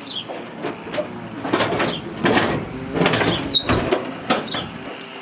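Scraping and knocking as heavy items are shifted and handled, in several short bursts. A bird's short falling chirp repeats every couple of seconds.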